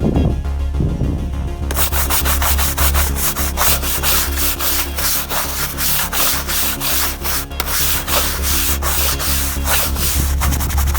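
Brush scrubbing carpet: rapid, rasping strokes that start about two seconds in, over a steady low hum.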